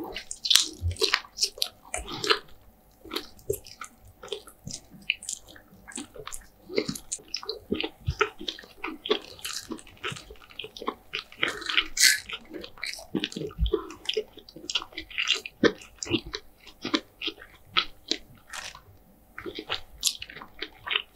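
Close-miked chewing and crunching of crispy KFC fried food, with frequent irregular crackling bites.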